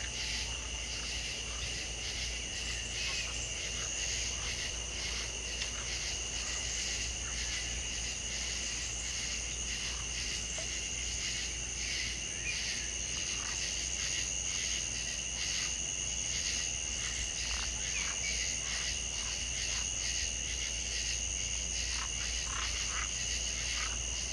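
Chorus of frogs and insects calling without a break: a continuous high trilling with fast, even pulses, over a low steady rumble.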